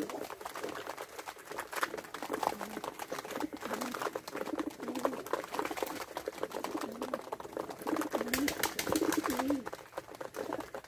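Domestic pigeons cooing, low rolling coos repeating every second or so, with a steady scatter of clicks and rustles that grows busier near the end.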